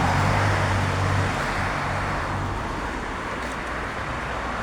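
Road traffic noise: a motor vehicle's low engine hum and tyre noise, fading over the first few seconds.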